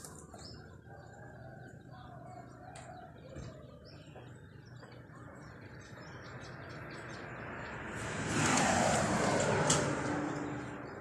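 Small birds chirping in short, scattered calls, while a rush of noise builds over several seconds, peaks about three-quarters of the way in and fades away near the end.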